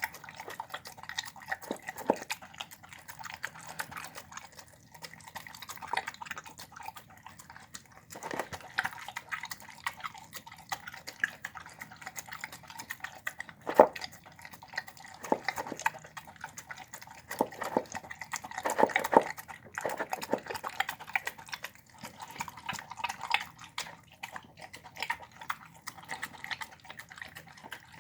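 A dog eating chicken on the bone with rice, beans and broccoli: wet chewing and smacking, broken by irregular sharp crunches, a few of them louder.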